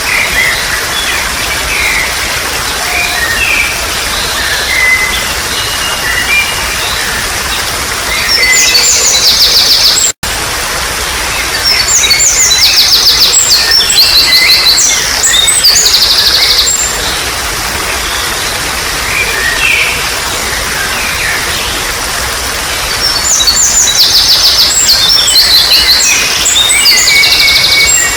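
Steady trickling water with wild birds calling over it: scattered short chirps throughout, and three loud spells of fast, rapidly repeated high notes lasting a few seconds each, about eight seconds in, from about twelve to sixteen seconds, and near the end. The sound drops out for a split second about ten seconds in.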